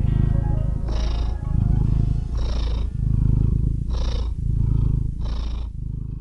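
A cat purring in long, even rumbles that break about once a second, like slow breaths. Soft background music fades out early on under the purr.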